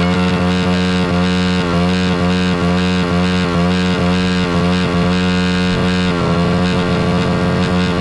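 Small four-stroke pit bike engine held at high revs with no load, a loud steady drone with a slight regular waver. It is being run flat out on purpose until it fails.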